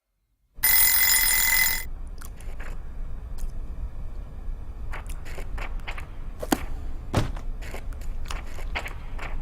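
A loud bell-like ring lasting just over a second. It is followed by a low steady rumble with scattered sharp clicks and knocks.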